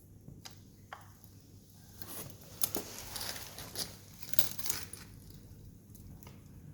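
Wood campfire crackling: scattered sharp pops and snaps that grow denser and louder through the middle, with one loud snap about two and a half seconds in.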